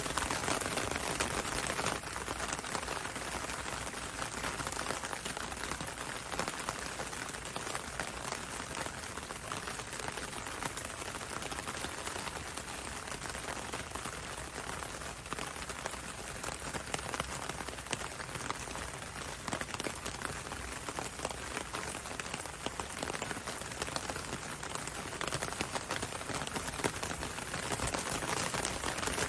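Steady rain falling on a window and a road, a dense, even patter of many small drops.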